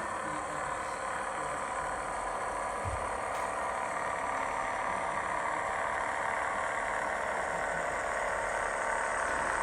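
Sound-fitted O gauge GWR railcar model playing its digital diesel engine sound through its small onboard speaker, a steady engine running sound that builds slightly toward the end. There is a brief low thump about three seconds in.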